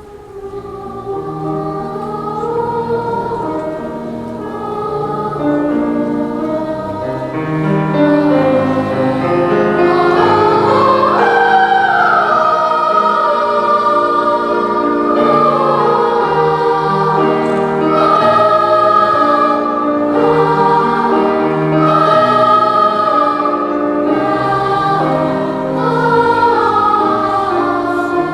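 Children's choir singing a wordless song in several parts, with long held notes. It starts soft and swells to full voice about eight seconds in.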